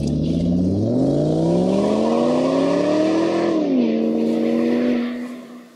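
Car engine revving up, its pitch rising for about three seconds, dropping at a gear change and then holding steady as it fades away near the end.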